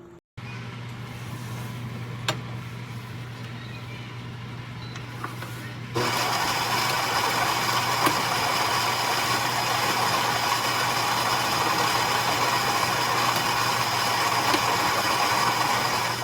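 Automatic espresso machine running: a steady low hum, then from about six seconds in a louder, even whirr that holds steady.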